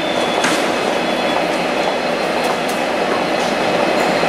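Train moving along the tracks: steady wheel and rail noise with a few sharp clicks, and a thin high wheel squeal in the first second or so.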